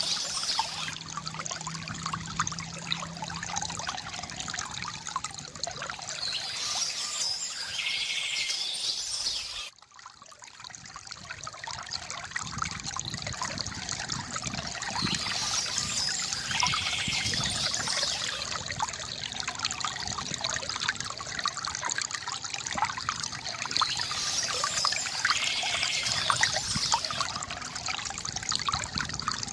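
Water trickling and pouring from a bamboo fountain, with birds chirping now and then. The sound drops out suddenly about ten seconds in and fades back up over the next few seconds.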